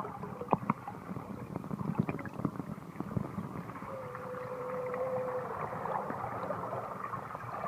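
Muffled pool water bubbling and sloshing, as heard by a camera held underwater, with scattered small knocks. About four seconds in, a steady tone sounds for about a second and a half.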